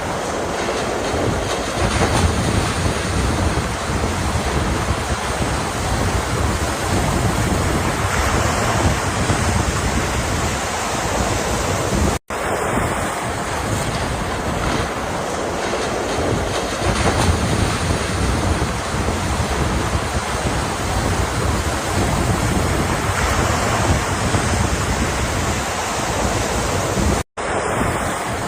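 Ocean waves washing in a steady rush, with wind rumbling on the microphone. The sound cuts out completely for an instant twice, about twelve seconds in and near the end.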